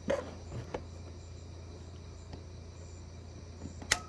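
Crickets chirping steadily over a constant low hum, with a few light knocks at the start and one sharp click near the end as parts are handled under the hood.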